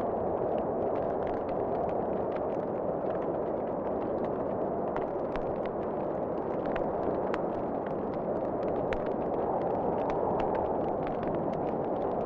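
Wood fire crackling in a fireplace, with sharp irregular pops over a steady low rush of wind that swells and eases slowly.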